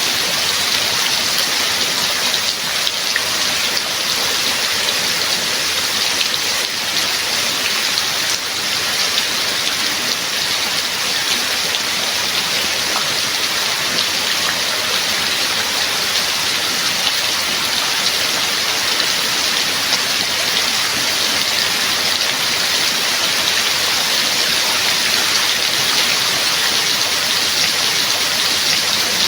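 Steady rain falling: an even, unbroken hiss of many drops with no thunder or pauses.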